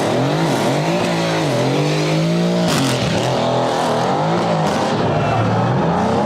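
A sports car's engine revved up and down repeatedly through its aftermarket exhaust, with one sharp crack a little before halfway.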